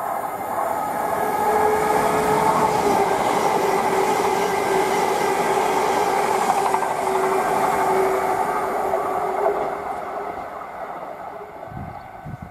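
Greater Anglia electric multiple unit running past a station platform: a rumble of wheels on rails with a steady whine, swelling as it passes and fading away near the end.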